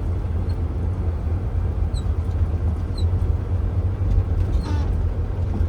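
Tractor-trailer truck running along the street, heard from inside the cab: a steady low engine and road rumble, with a couple of faint high ticks.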